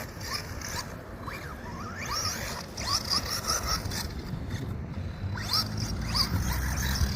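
RC car's motor whining up in short rising bursts, again and again, as it is driven hard over rough ground, with a low hum building in the last couple of seconds.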